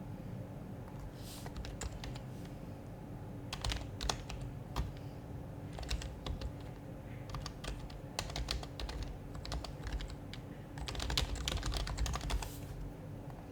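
Typing on an HHKB Professional HYBRID Type-S keyboard with silenced Topre capacitive switches, in irregular spurts of keystrokes with short pauses between them and the densest run near the end.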